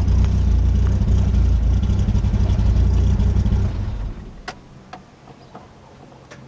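Citroën BX 16v's 16-valve four-cylinder engine running steadily at idle, then switched off about four seconds in and winding down. After it stops, a few separate sharp clicks.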